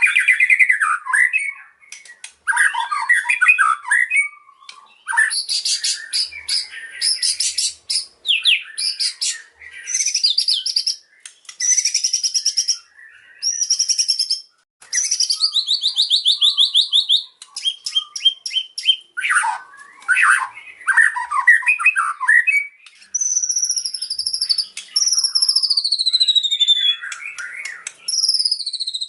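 White-rumped shama (murai batu) singing a long, varied song: loud whistles, chattering phrases and a fast trill, ending in a series of descending whistled slurs.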